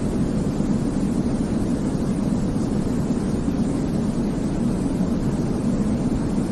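Steady baby-sleep white noise, a constant deep rushing rumble weighted toward the low end, with no changes or breaks.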